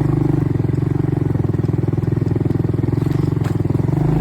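ATV engine running steadily at a low, even pace while the quad is ridden along a track.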